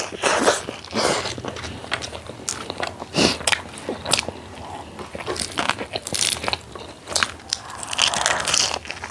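Close-miked mouth sounds of a person eating: irregular crunchy bites and chewing, with sharp clicks.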